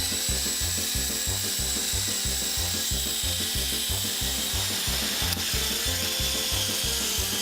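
Electric motors and coaxial rotors of a Walkera 5#10 RC helicopter running with a steady high whine that dips slightly and picks up again near the end. A low pulsing rumble of about three beats a second runs underneath.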